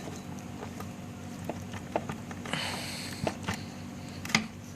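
A rubber breather hose being worked off its air-filter fitting by hand: scattered small clicks and a rubbing scrape a little past halfway, then one sharp click near the end. A steady low hum runs underneath.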